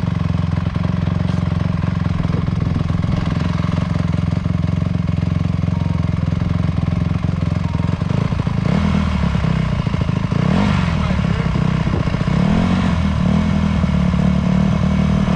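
Dirt bike engine running steadily, then from about nine seconds in its revs rise and fall again and again as the throttle is blipped.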